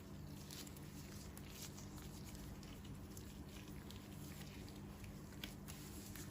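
Faint, irregular soft ticks and rustles of close handling, over a steady low hum.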